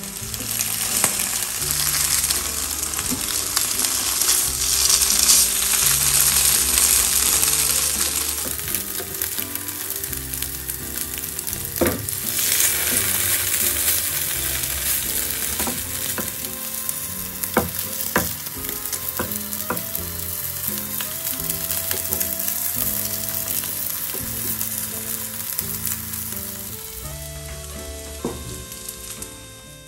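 Tofu-and-rice patties sizzling as they pan-fry in a nonstick frying pan, loudest in the first several seconds and again briefly about twelve seconds in. A handful of sharp clicks of the spatula against the pan come in the middle as the patties are turned.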